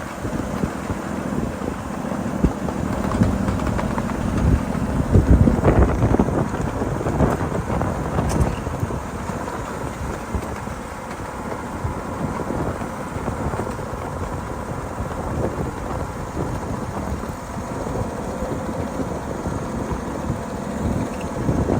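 7.5-inch gauge miniature freight train rolling along its track, wheels rumbling with irregular clicks over the rails, and wind buffeting the microphone. It grows louder for a few seconds about five seconds in.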